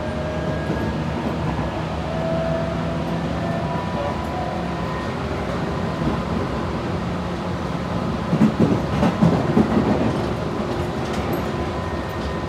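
Tobu 8000 series electric commuter train running at speed, heard from inside the passenger car. Steady rumble of wheels on rail with a faint steady whine, and a run of louder knocking and rattling from the wheels about eight to ten seconds in.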